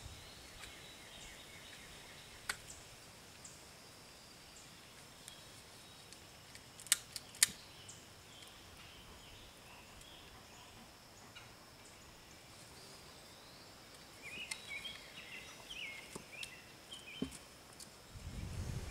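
Quiet outdoor background with birds calling, the calls busiest in the last few seconds. Two sharp clicks come close together about seven seconds in, with a few lighter ticks scattered through.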